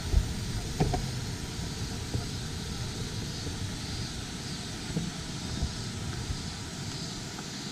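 Steady low rushing noise with a few soft knocks, one near the start, one about a second in and one around five seconds in.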